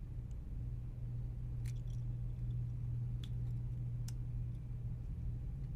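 Steady low hum with a few faint, sharp clicks of small parts and tools being handled at the workbench.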